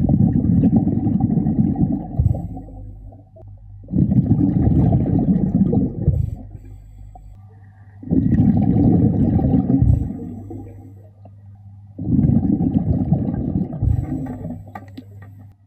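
A diver breathing underwater through a regulator: four long rushes of exhaled bubbles, one about every four seconds, with quieter inhalations in between.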